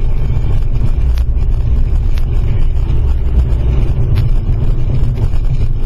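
Loud, steady low rumble of a car driving, as picked up by a dashcam inside the vehicle, with a few faint sharp ticks every second or two.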